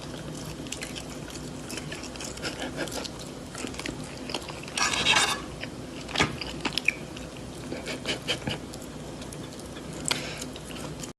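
Chewing and crunching on something crisp: a run of short crunches and clicks, with a loud burst of crunching about five seconds in and a few sharp cracks after it, over a low steady hum.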